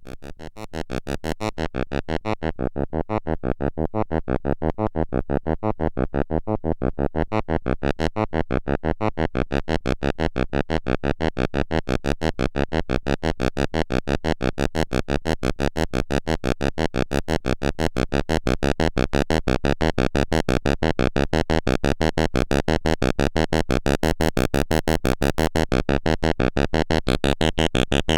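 Electronic synthesizer playing a rapid, evenly repeating pulse pattern. It steps up in level just under a second in and grows brighter in the top end near the end.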